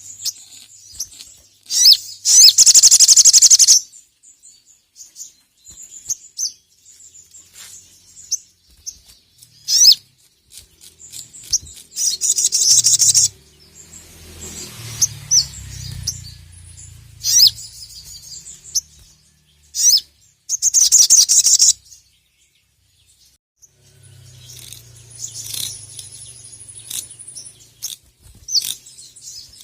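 Sogon (sogok ontong) songbird calling hard: loud bursts of rapid, high-pitched chattering, each about a second long, three times, between single sharp chips and shorter trills.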